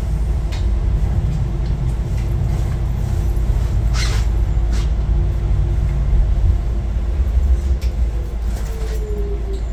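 Docklands Light Railway train running slowly, heard from inside the front of the car: a steady low rumble with a constant motor hum, two sharp clicks around the middle, and a falling whine near the end.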